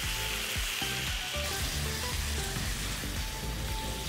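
Chunks of salmon and diced onion sizzling in soy sauce in a hot wok, stirred with a wooden spatula.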